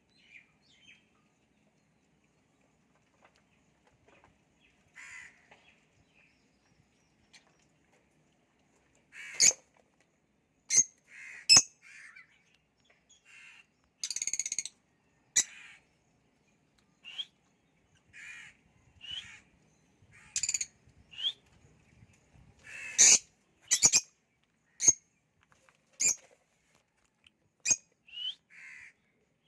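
Pet lovebirds calling: sharp, shrill chirps and squawks at irregular intervals, with one longer call about halfway through.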